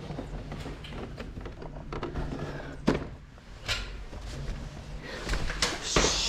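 Scattered knocks and thunks of an air conditioner indoor unit and its piping being handled and hooked onto the wall mounting plate, with the sharpest knocks about three and three and a half seconds in and a rustling hiss near the end.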